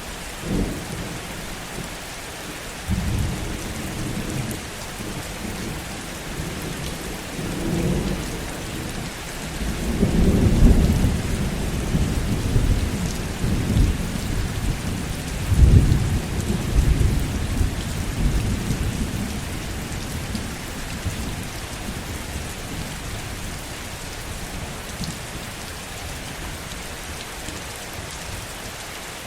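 Heavy rain falling steadily, with a long roll of thunder that builds from about three seconds in, is loudest around ten and sixteen seconds, and fades away by about twenty seconds.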